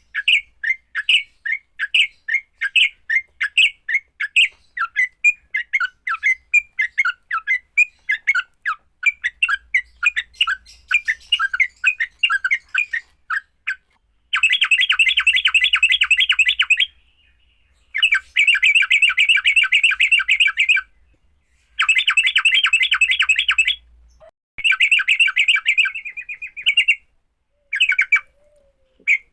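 Yellow-vented bulbul (trucuk) fighting calls: a run of short chirps, two or three a second, then from about halfway a fast rattling chatter in bursts of two to three seconds with short pauses between them.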